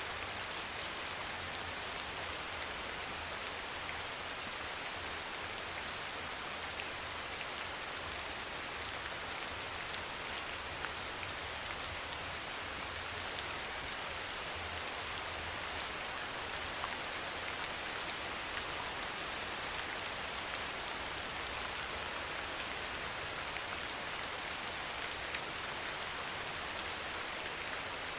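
Steady soft rain falling: an even hiss with scattered faint drop ticks, unchanging throughout.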